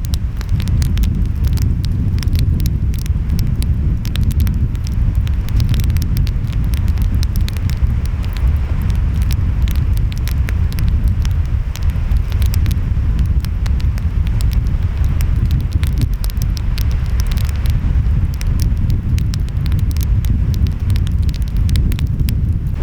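Wood fire crackling with many sharp pops and snaps, over a steady low rumble of ocean waves and wind.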